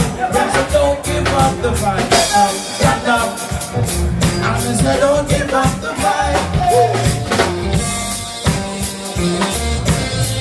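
Live reggae band playing, with drum kit and bass driving a steady beat and melodic lines over the top.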